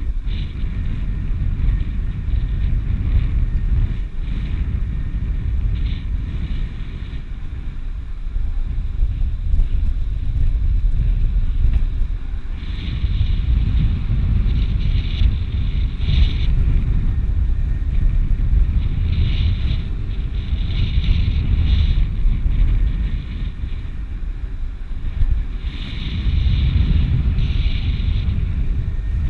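Strong wind buffeting the microphone, a loud low rumble that swells and eases throughout, with stretches of higher hiss coming and going three times in the second half.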